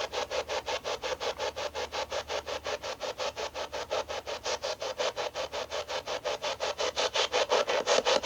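Spirit box radio sweeping through stations: a steady, even stutter of short static bursts, about eight a second.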